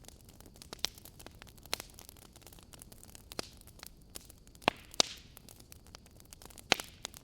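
Fireplace crackling: irregular sharp pops and snaps over a faint steady hiss, with the loudest pops a little past the middle and near the end.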